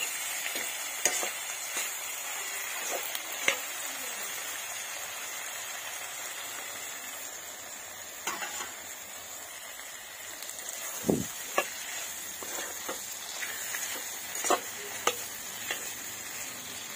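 Vegetables sizzling in oil in a kadai (wok), a steady hiss, with a spatula scraping and knocking against the pan now and then. The knocks come more often after about ten seconds.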